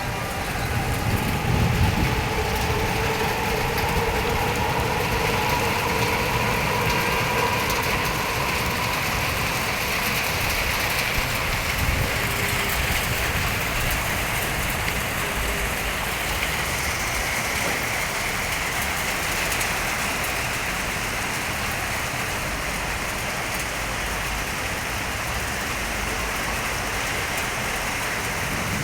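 Torrential rain pouring down steadily, a dense even hiss of rain hitting surfaces.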